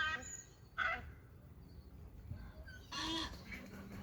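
Birds calling: three short, harsh calls, one at the start, one about a second in and one about three seconds in, with fainter calls in between.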